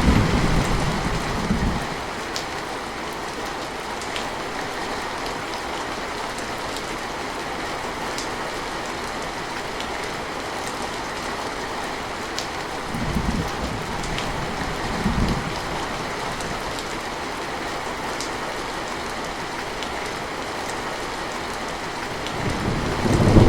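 Steady rain with scattered drop ticks. A low rumble of thunder fades out in the first couple of seconds, two short low rumbles come about halfway through, and thunder builds again near the end.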